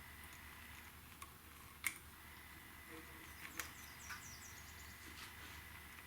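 Faint, scattered clicks and light taps of small parts being handled, a few in all, over a low steady hum and a faint high whine.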